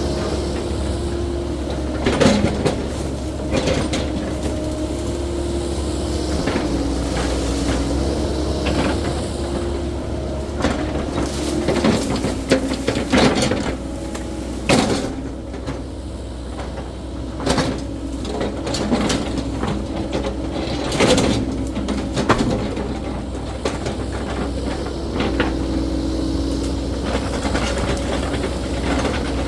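Cat 308E2 mini excavator running steadily with its engine tone dipping and recovering under hydraulic load. Repeated sharp knocks and cracks from the clearing work, thickest in the middle stretch.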